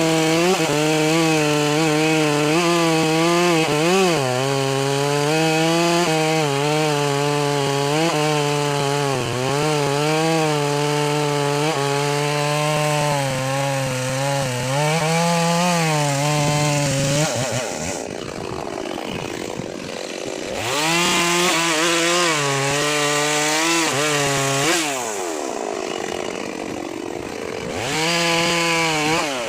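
Two-stroke chainsaw running at high revs and cutting wood, its pitch wavering under load. Twice, once past halfway and again near the end, the revs fall away and then climb back.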